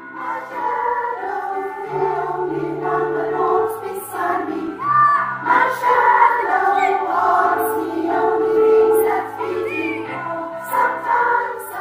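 A choir singing, several voices holding sustained notes together in harmony.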